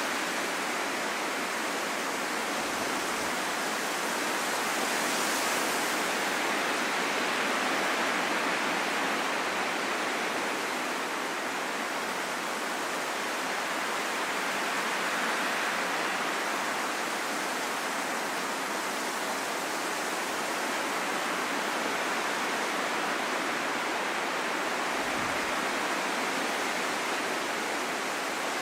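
Steady wind, a soft hissing rush with little low rumble, swelling and easing slowly.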